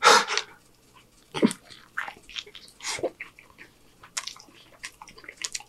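A man chewing a mouthful of burrito: irregular wet mouth clicks and lip smacks, with a louder smack right at the start.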